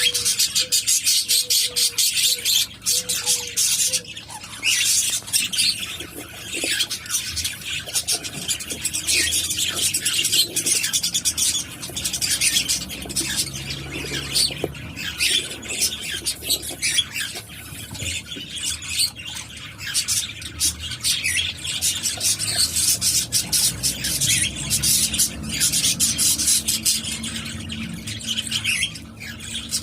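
Cockatiels calling: a continuous stream of rapid, raspy, high chattering squawks.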